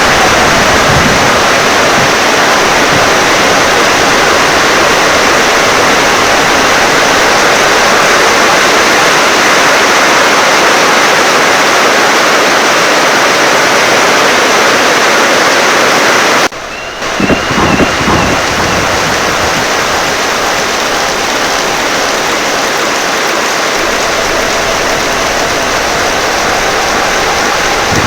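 Heavy rain and wind pouring steadily. About two-thirds of the way through, the sound dips suddenly and a low rumble of thunder follows.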